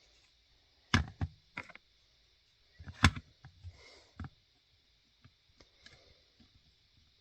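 Plastic LEGO pieces clicking together and knocking as they are handled and pressed into place. There are sharp clicks about one second and three seconds in, a few more just after, then lighter ticks.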